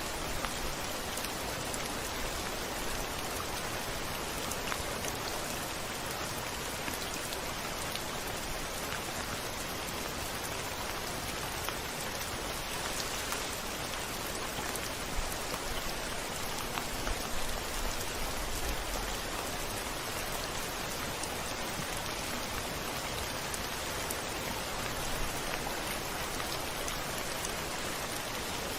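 Steady rain falling, an even wash of dense drops with faint individual ticks. A short low rumble comes in a little past the middle.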